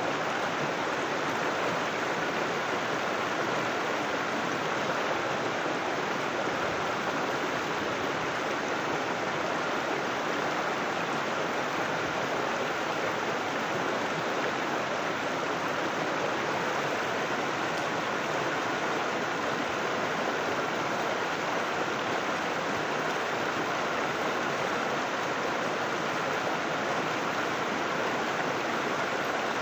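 River water rushing and splashing over rocks, a steady, unbroken flow.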